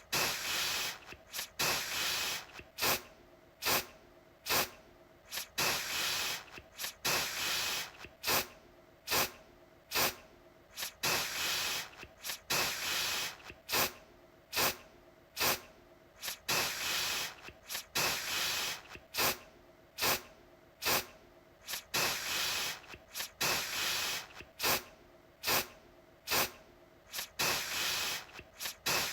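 Aerosol deodorant can spraying in repeated bursts, roughly one a second. Some bursts are short puffs and some are held for about a second, each starting sharply.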